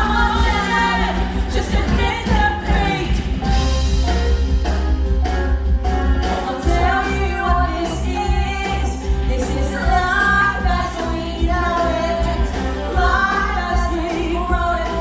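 Women singing a musical-theatre song over instrumental accompaniment with a steady low bass.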